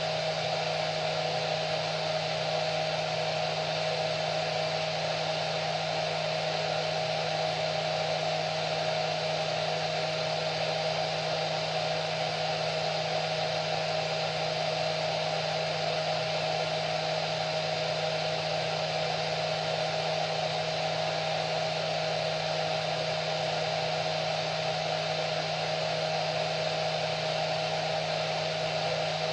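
Hair dryer running at a constant speed, a steady blowing hiss with a low motor hum and a higher whine.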